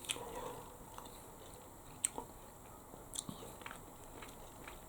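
A person eating a pot of instant chicken noodles: quiet chewing, with a scattering of short, sharp light clicks.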